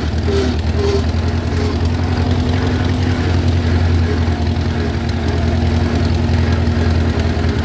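Allis-Chalmers WD tractor's four-cylinder engine running steadily with an even low pulse. A few faint short squeaks sound in the first second.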